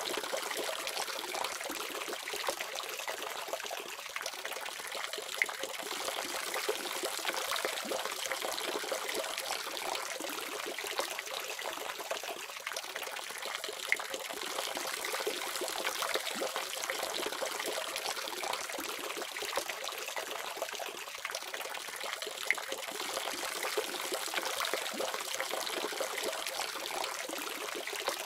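Water running steadily from a faucet, a continuous splashing trickle with small crackling drips.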